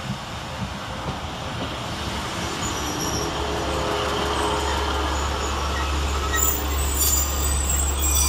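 Northern Class 150 Sprinter diesel multiple unit pulling into the platform and slowing: a rumble of wheels on the rails, with a steady low engine drone from about three seconds in as the cab comes alongside. Brief high squeals from the braking wheels near the end.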